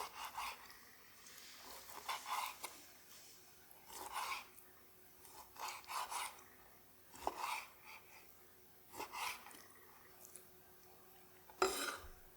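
Kitchen knife slicing through food on a cutting board in slow, separate rasping strokes, about seven of them, with a sharper knock on the board near the end.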